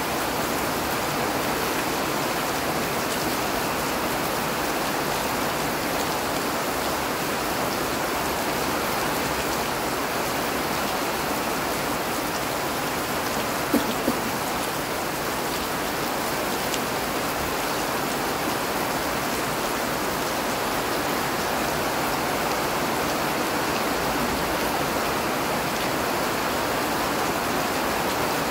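Rain falling steadily, an even hiss, with two short sharp ticks close together about halfway through.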